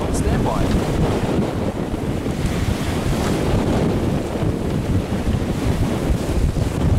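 Steady wind buffeting the microphone over the rush of water along a sailing yacht's hull as it sails in strong wind.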